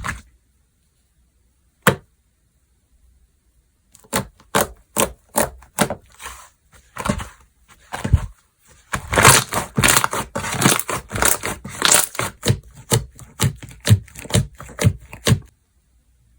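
Slime being squeezed and poked by hand, making crisp pops and crackles. A single pop comes about two seconds in, then a run of pops from about four seconds that grows quick and dense in the middle and stops shortly before the end.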